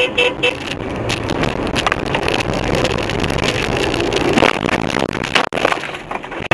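Road vehicle noise picked up by a dash camera: a dense, loud rumble with many short knocks and clicks, briefly dropping out near the end.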